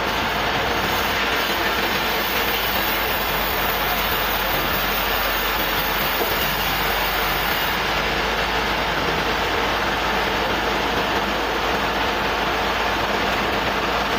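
Sawmill running steadily: a continuous, loud mechanical noise of the mill's engine and saw.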